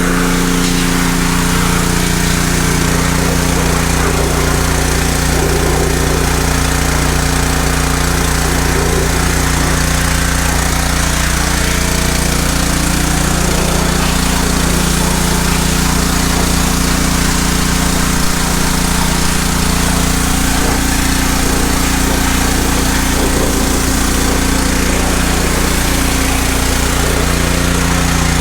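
Small gas-engine pressure washer running steadily at a constant speed, with a dense hiss over its engine note.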